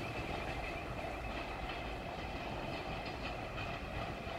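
Passenger train hauled by a TEP70 diesel locomotive rolling along the track at a distance, a steady noise of wheels on rails.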